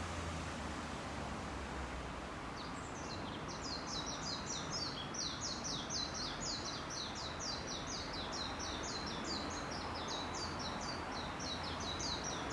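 A songbird singing a long unbroken run of rapid, high, repeated notes, about four a second. It starts about three seconds in over a steady background hiss and carries on to the end.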